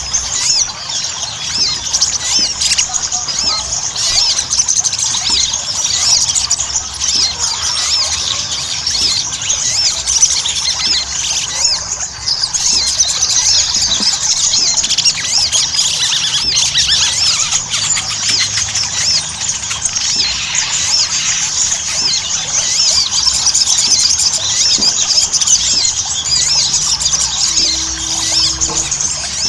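Sogon (little spiderhunter) singing without pause: a dense, rapid stream of high-pitched chattering notes. This is the busy 'gacor' song used as a lure to set other sogon singing.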